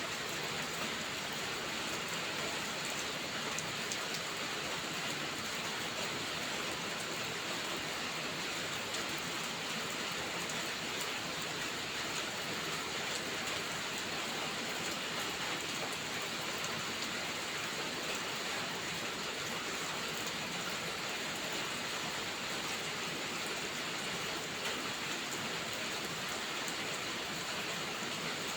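Steady rainfall: an even, unbroken hiss of many drops at a constant level.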